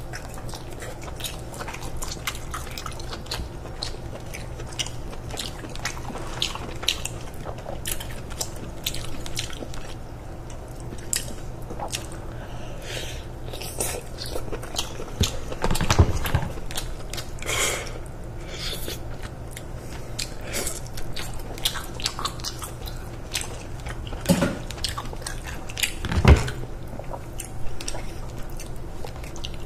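Close-miked eating of king crab legs: wet biting and chewing of the meat, and meat sucked from the shell, with clicks throughout. A few louder cracks of the leg shells stand out, the loudest about 16 and 26 seconds in.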